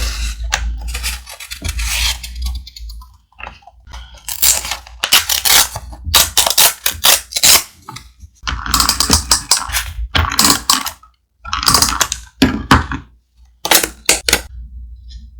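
Thick paper being handled, rustled and crinkled in a series of irregular scraping strokes.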